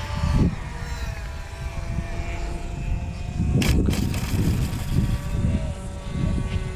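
Twin electric ducted fans of a model A-10 Warthog whining steadily on landing approach, with wind buffeting the microphone. One sharp knock comes about three and a half seconds in.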